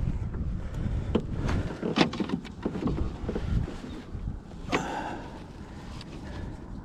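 Wind rumbling on the microphone, with several sharp knocks and clicks about one to three seconds in and a louder knock near five seconds.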